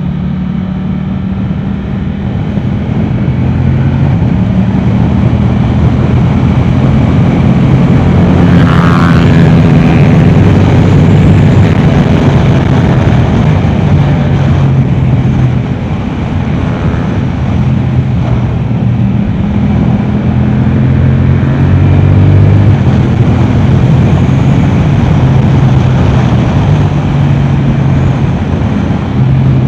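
Yamaha R7's 689 cc parallel-twin running through an Akrapovic exhaust at track pace, its note climbing and dropping in steps as the throttle opens and closes and gears change.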